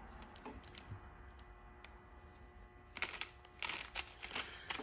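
A few faint clicks, then from about three seconds in a stretch of rustling and clattering handling noise as small items are handled.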